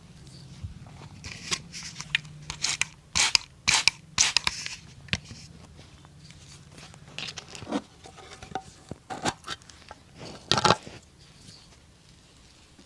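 Cobbler's hand tools working on a leather boot: a run of irregular sharp scrapes and snips, loudest in a cluster about three to five seconds in and again near eleven seconds.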